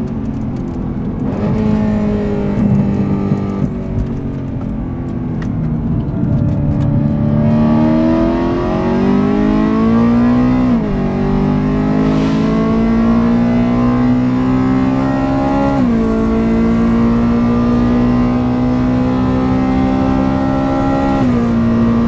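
BMW M3 E92's 4.0-litre V8 through a full IPE Innotech straight-pipe exhaust, heard onboard: revs fall with crackling on the overrun, then the engine pulls hard through the gears, rising in pitch with three quick upshifts.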